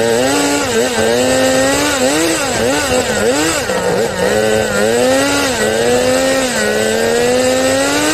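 Small two-stroke engine of an RC drift car, heard close from on board, revving up and down in quick swoops as the throttle is blipped, then holding steadier, higher revs in the second half.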